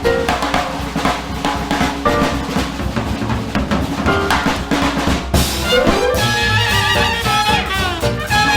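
Fast swing jazz: a drum-kit passage with snare and bass drum, then about five seconds in the band's horns come in with sliding phrases.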